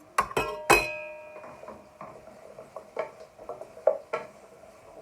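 A spoon knocks sharply against a metal pan three times in the first second, the last knock ringing on. Lighter, irregular taps and scrapes of stirring spices in the pan follow.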